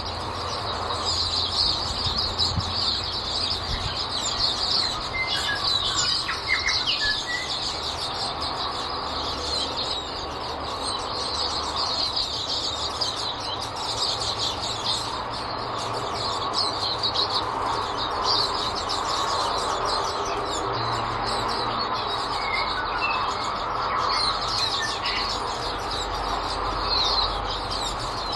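A flock of silvereyes (waxeyes) feeding, a constant stream of many overlapping high, thin chirps.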